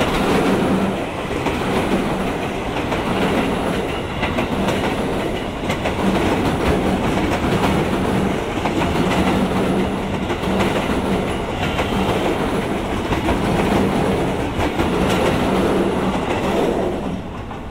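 Ex-JR East 205 series electric commuter train passing close by: steady rumble of steel wheels on rail with clickety-clack over the rail joints and a steady low hum. The noise drops away about seventeen seconds in as the last car passes.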